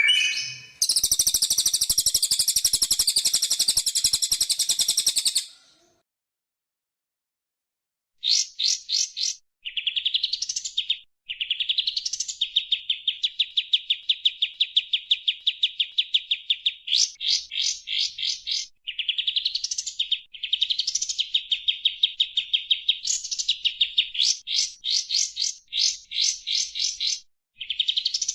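Songbird song: a loud, dense high trill for about five seconds, a silent gap of about three seconds, then a long series of rapid buzzy trills broken by quick rising sweeps.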